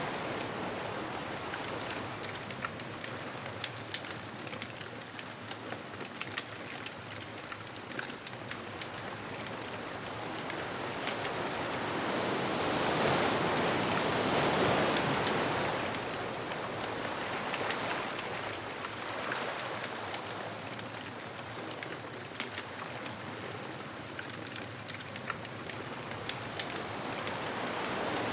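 Ocean waves washing onto a beach in slow swells, one building to a peak about halfway through and another rising near the end. Many small sharp pops and crackles from a wood bonfire run through it.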